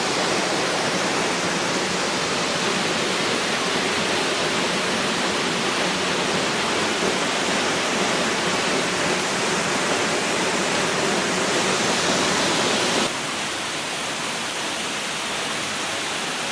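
Waterfall water falling and rushing, a steady, even roar of noise that drops a little in level about 13 seconds in.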